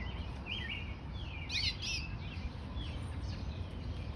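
Canaries chirping in short bursts, the clearest about half a second in and around a second and a half to two seconds in, over a steady low background rumble.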